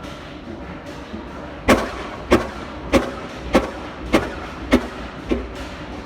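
Fielding hot-bulb diesel engine running slowly, firing in sharp, evenly spaced beats a little under two a second. Seven beats come in a row over a low hum, the last one weaker.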